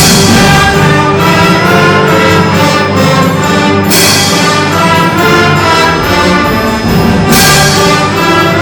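A symphony orchestra playing loudly, brass prominent over the strings, with sharp accents at the start, about four seconds in and near the end.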